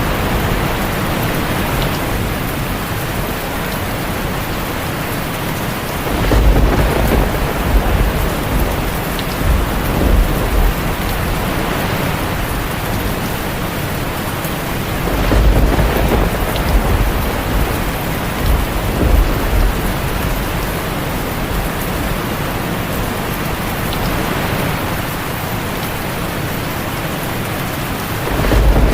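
Heavy rain drumming steadily on a tin roof, with rolls of thunder rumbling low several times: about six seconds in, midway through, and again near the end.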